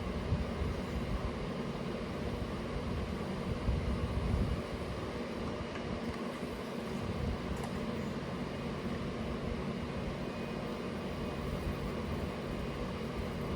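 A pressure washer running steadily with a low motor hum while spraying degreaser, a little louder about four seconds in.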